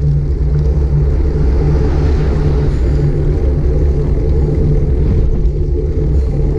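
Steady loud rumble of wind buffeting a GoPro Hero 5 Black's microphone while cycling, mixed with road noise.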